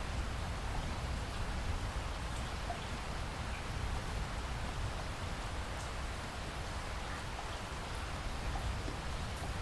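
Steady rain: an even hiss with occasional single drops ticking, over a constant low rumble.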